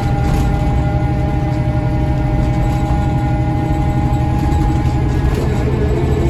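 Scania L94UB bus with its Scania DC9 diesel engine running, heard from inside the bus: a steady low drone with several whining tones that change pitch about five seconds in.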